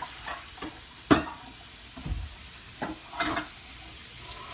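Cooked shellfish being shifted around on the serving spread: a series of short clacks and knocks of shell against shell and dish, the sharpest about a second in, with a dull thump about two seconds in.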